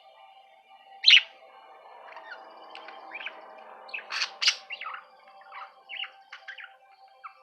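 Budgerigar chirping and chattering in a run of short, sharp calls, the loudest about a second in and again around four and a half seconds in.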